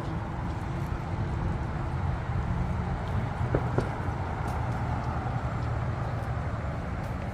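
A car engine idling steadily, a low even rumble, with two short high chirps about three and a half seconds in.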